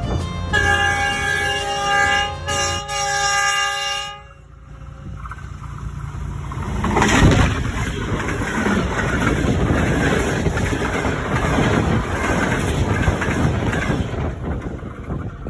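Train horn sounding a held chord of several notes for about three and a half seconds, broken by a short gap. Then a passing train's rumble and rattle swell up, loudest about seven seconds in, and run on steadily.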